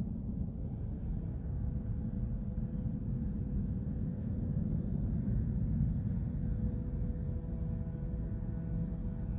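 Steady low rumble of distant engine noise, with a faint hum that grows a little clearer in the second half.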